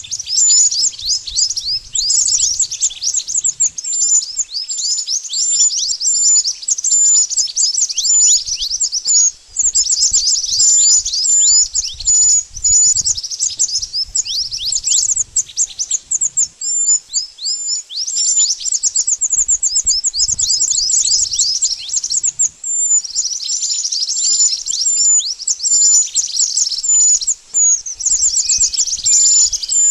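Malaysian pied fantail (mantenan) singing: a dense run of fast, high chirps, each note dropping quickly in pitch, going on almost without break with two short pauses.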